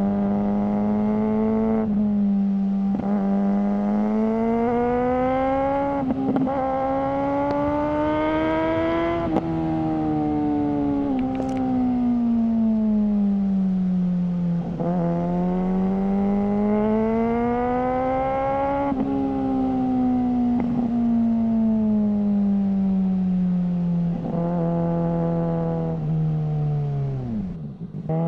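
Suzuki GSR600's inline-four through a GPR Ghost aftermarket exhaust, pulling hard and climbing through several quick upshifts in the first ten seconds. It then eases off with the pitch sinking, pulls again, and slows for a long stretch, the note dropping sharply near the end.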